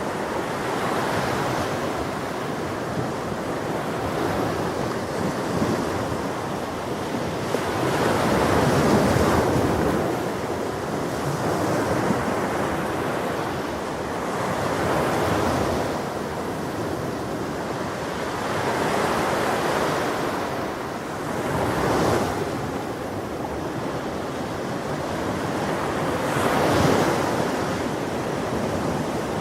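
Ocean surf: waves breaking and washing on a shore in a steady rush, swelling every few seconds, with stronger breakers about a third of the way in, three-quarters in and near the end.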